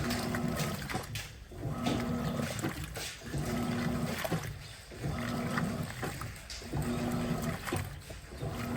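Electrolux LTP15 top-loading washing machine agitating a load: the motor hums and the agitator churns the water in strokes of about a second, each followed by a short pause, about every second and a half to two seconds.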